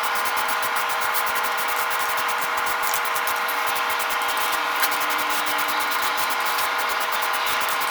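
A power tool runs steadily on metal, a constant abrasive grinding noise over a steady motor hum.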